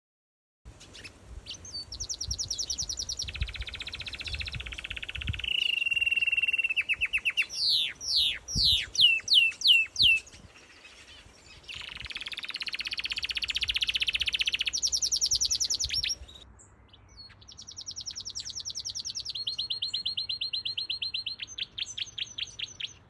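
Canary singing a long song of rapid trills, each held for a second or two, with a run of loud down-sweeping whistled notes about a third of the way through.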